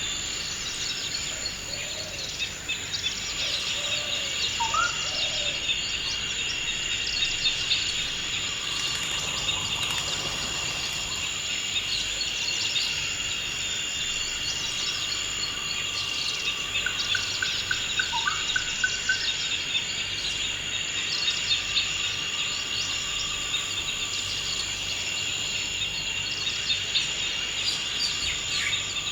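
Forest ambience: a steady, high insect drone with many birds chirping over it. Now and then there is a short rising whistle, and a brief repeated trill comes about two-thirds of the way in.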